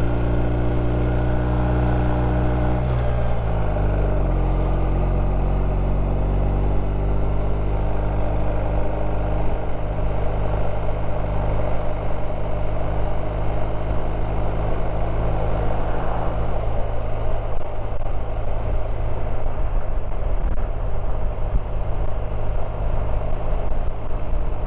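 BMW R1250 RT's boxer-twin engine running while riding, with wind rushing past. The engine note falls about three to four seconds in, then runs steady as the wind noise grows stronger.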